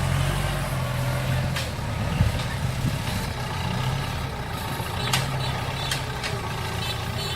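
Heavy vehicle engine running steadily at a low, even pitch, with a few short high chirps a little past halfway.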